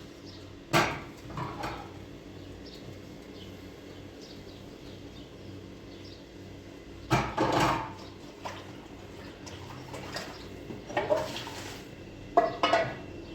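Dishes and pots being washed by hand: separate clatters and clinks of crockery and metal, about five in all, spread through, over a steady low background hum.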